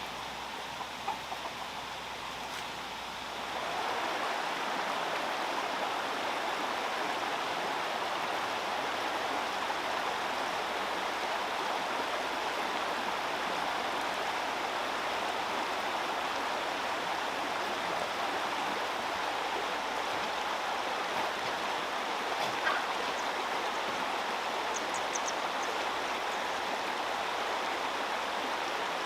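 Steady rushing of running water, louder from a few seconds in, with a couple of faint knocks.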